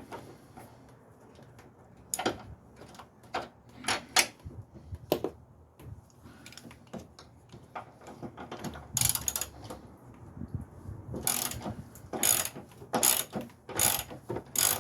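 Socket ratchet wrench clicking in short strokes as an engine-mount bolt is backed out. The strokes are scattered at first and become a steady run of bursts, about one every 0.7 s, in the second half.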